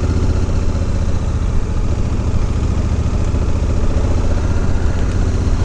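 Honda Africa Twin's parallel-twin engine running steadily as the motorcycle climbs a steep mountain road.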